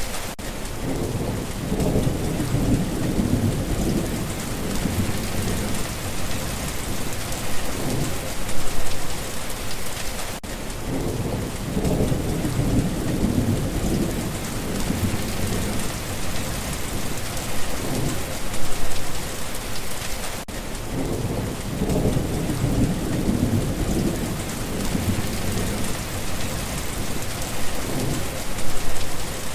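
Steady rain hissing on surfaces, with rolls of thunder rumbling low beneath it. The rumbles come back about every ten seconds.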